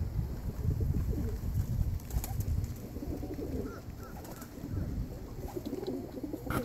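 Tippler pigeons cooing in low, repeated calls, over a steady low rumble of wind on the microphone.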